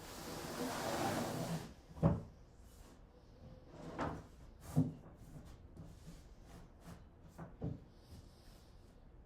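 Plywood and tools being handled: a sliding scrape for about a second and a half, then a few light knocks spread over the rest.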